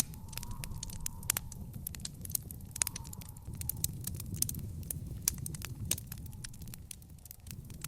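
Wood fire in an outdoor fire pit crackling, with frequent sharp pops and snaps of varying loudness over a low steady rumble.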